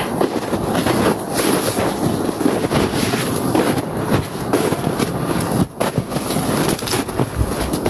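Footsteps crunching through snow at a steady walking pace, with a brief pause about halfway through.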